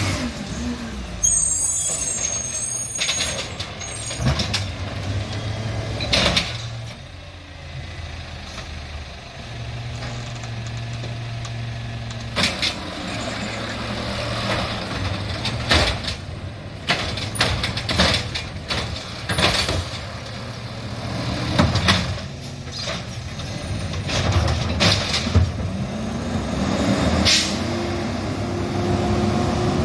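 Garbage truck at work: its diesel engine runs steadily while repeated sharp clanks and bangs sound. About a second in there is a high squeal and hiss of its air brakes.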